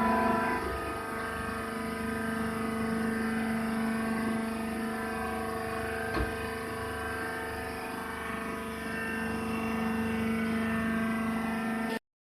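Hydraulic wood shaving baler running, its motor and hydraulic pump giving a steady hum with one sharp click about halfway through. The sound cuts off abruptly near the end.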